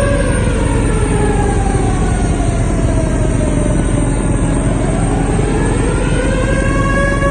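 Wailing warning siren whose pitch sags slowly and then climbs back, over a loud continuous rushing roar of floodwater.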